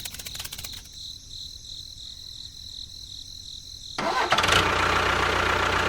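A burst of rapid clicks, then a faint pulsing high whine, then an engine sound that starts suddenly about four seconds in and runs on steadily.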